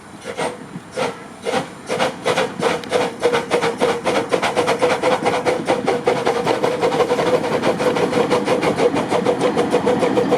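Park railway steam locomotive pulling away. Its exhaust chuffs start slow and quicken steadily into a fast, even beat.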